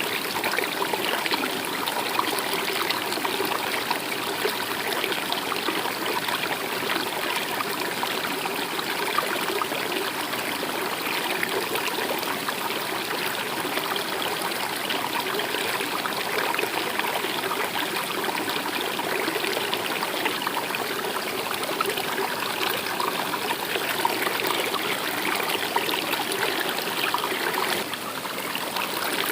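Steady flowing water of a stream, trickling and burbling continuously.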